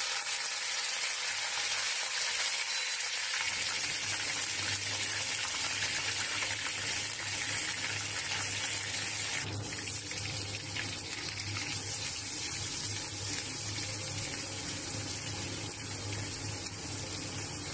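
Curry leaves and whole spices sizzling in hot oil in a wok as they are stirred with a wooden spatula: a steady, even hiss, the tempering stage of a curry.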